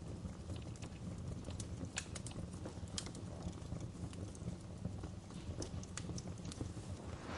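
Wood fire burning in a fireplace, with a steady low rumble and irregular crackles and sharp pops.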